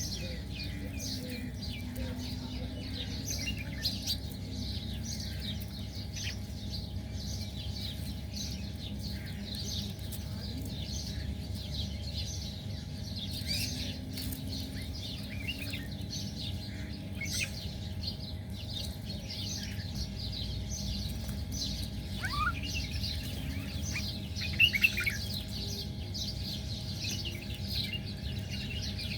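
Many small birds chirping and twittering without a break, with a few louder calls about four seconds in and again near the end, over a steady low rumble.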